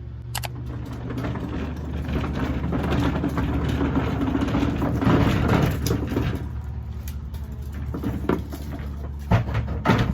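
Wheeled trash bins being rolled in, their wheels rumbling and clattering along the ground. A few sharp knocks come near the end.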